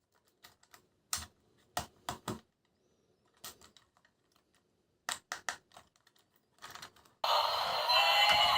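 Scattered sharp plastic clicks and clacks, singly and in quick groups of two or three, as toys and packaging are handled; about seven seconds in, loud music with synthetic singing starts.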